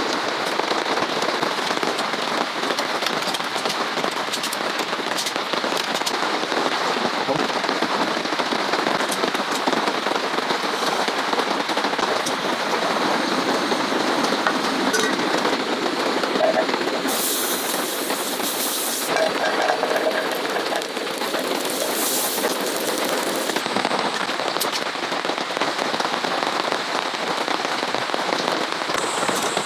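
Steady rain falling, a dense even hiss, with two brief louder hisses a little past the middle.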